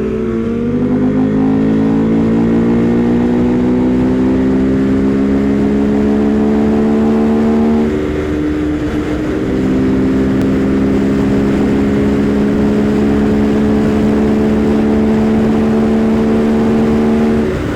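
Husqvarna Svartpilen 401's single-cylinder engine running under throttle on the road, its pitch climbing slowly. About eight seconds in it eases off briefly, then pulls again with the pitch rising slowly.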